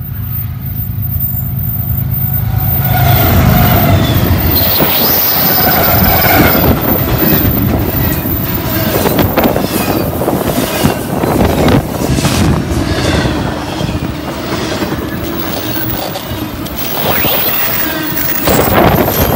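Diesel-hauled double-stack intermodal freight train passing close by: the locomotive's low engine hum swells as it approaches and goes by in the first few seconds, then the container cars roll past with steady wheel noise, rapid clicking over rail joints and high-pitched wheel squeal, which comes again near the end.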